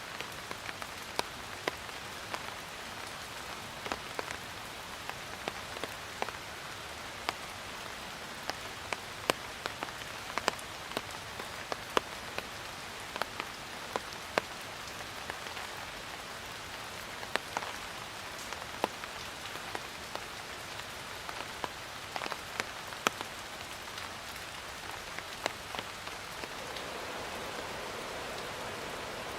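Steady rain falling, a constant hiss with many individual drops ticking sharply on a hard surface close by. Near the end the rain becomes a smoother, heavier wash with fewer separate drops.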